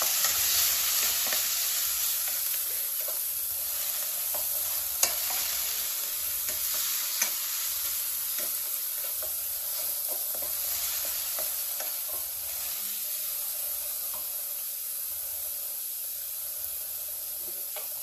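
Grated onion with ginger-garlic paste, green chilli and coriander sizzling in hot oil as the gravy base is stirred in the pan. A few sharp clicks sound as it is stirred, the clearest about five and seven seconds in.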